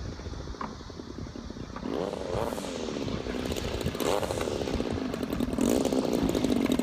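DLA-64 twin-cylinder two-stroke gas engine of a large RC model plane, quiet at first, then its note sweeping up and down twice as it passes before settling into a steadier, louder run.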